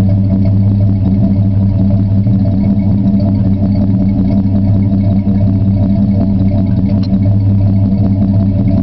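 Ford 300 straight-six (4.9 L) in a 1976 F-100 idling steadily, its exhaust going through a stock manifold, 2.5-inch pipe and a 40 series Flowmaster muffler.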